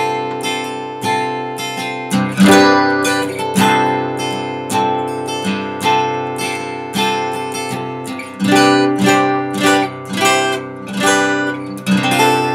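Taylor acoustic guitar strummed in a steady rhythm with no singing, the song's instrumental outro. It ends on a last strum that rings out.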